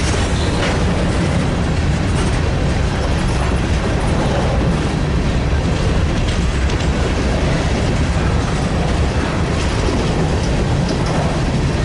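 Freight grain train rolling past, a steady rumble of its cars with faint wheel clicks over the rail.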